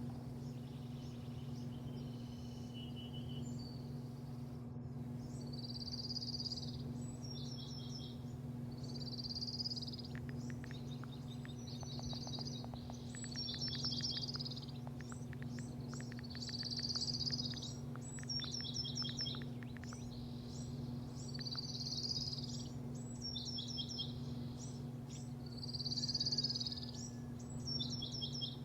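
A bird singing the same short, high phrase over and over, every two to four seconds, over a steady low machine hum.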